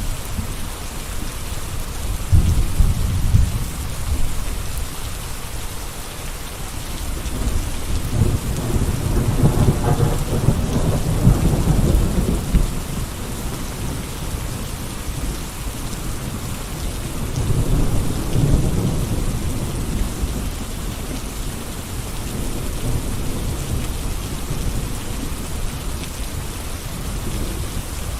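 Steady rain falling as an even hiss, with deep low rumbles swelling up three times: briefly a couple of seconds in, longest in the middle, and again about two-thirds of the way through.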